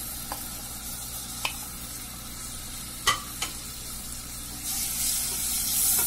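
Crushed tomatoes sizzling in hot oil in a small saucepan, with a few light clicks. The sizzle gets louder near the end as a wooden spatula starts stirring.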